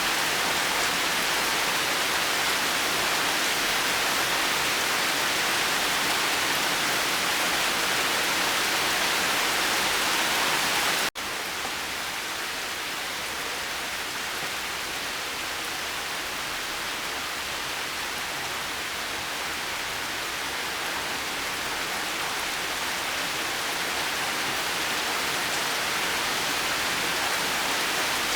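Steady rain falling, an even hiss of many drops with no thunder. About a third of the way in it breaks off for an instant and carries on a little softer, slowly building back up.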